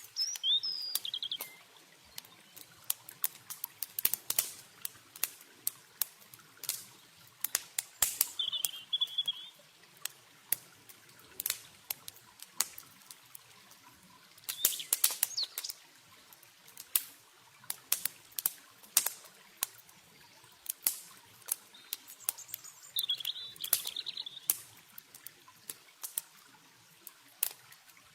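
Wood campfire crackling with frequent sharp pops over a soft, steady rush of running water. A small bird chirps briefly three times: at the start, about a third of the way in, and late on.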